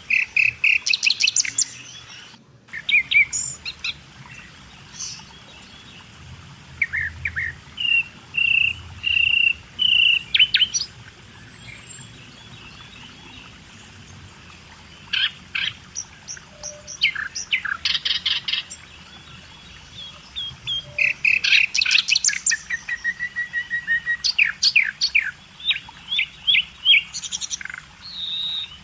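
Several birds chirping and singing: rapid runs of repeated notes, short whistled phrases, and a few thin, very high buzzy trills.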